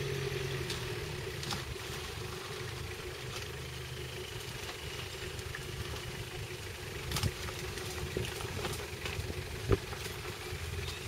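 4x4 engine running steadily at low revs as the vehicle crawls along slowly. A sharp knock comes near the end, with a lighter one a couple of seconds before it.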